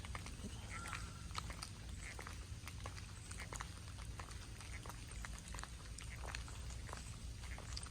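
Water dripping from wet trees after rain, irregular drops pattering on leaves and the ground, so that it sounds like rain still falling, with a short high note about a second in.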